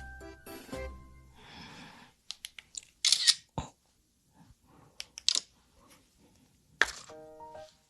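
Several sharp, close-miked crackles and crunches in separate bursts, the loudest about three seconds in. Short snatches of music at the start and near the end.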